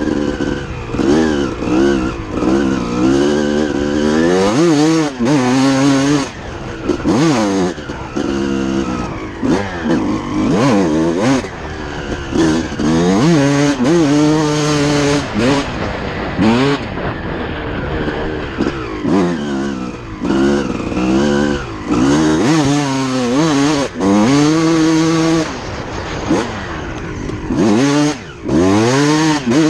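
2006 Suzuki RM250 two-stroke single-cylinder engine being ridden hard, revving up and down over and over, its pitch climbing and falling every second or two with brief drops at each throttle-off.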